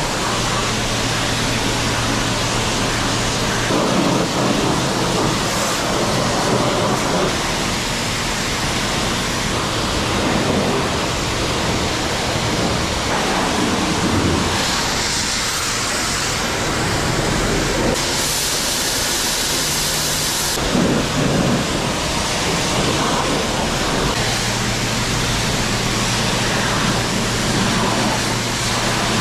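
High-pressure water spraying steadily in a loud, even hiss, with a low steady hum underneath in the first few seconds and again near the end, as the truck is washed.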